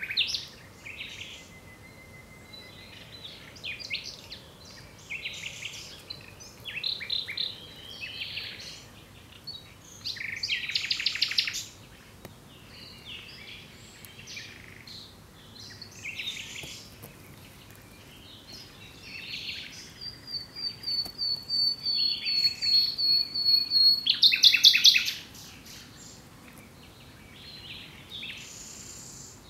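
Nightingale singing: short, varied phrases separated by pauses, among them a rapid trill, then a long run of quickly repeated notes over a held high whistle that swells louder and breaks off abruptly about two-thirds of the way through.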